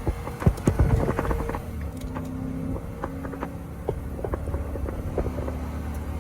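Ford F-250's 6.2 L gas V8 running steadily with the truck under way. A cluster of sharp clicks and knocks comes about half a second to a second and a half in, with scattered rattles after.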